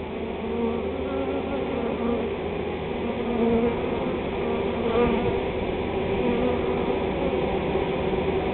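A swarm of honey bees buzzing: many bees together in a dense, steady hum of overlapping wavering tones.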